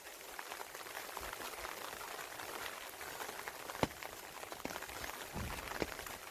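Rain falling steadily, with many scattered drops tapping and one sharper tap about four seconds in.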